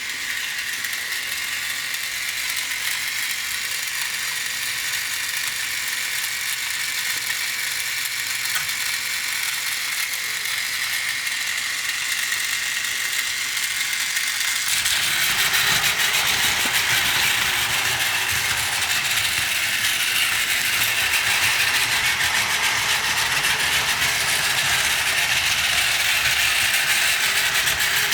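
Battery-powered Plarail toy train, an E5 and E6 Shinkansen set coupled together, running on plastic track: a small electric motor whirring through its gearbox, with a steady rattle of wheels and track joints. About halfway through the sound becomes louder and fuller.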